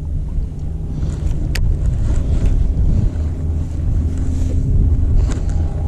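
Wind buffeting the microphone, a steady low rumble, with two sharp clicks, one about a second and a half in and one near the end.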